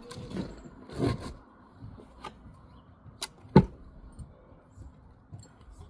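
Scraping in the first second or so, then a few sharp knocks, the loudest about three and a half seconds in.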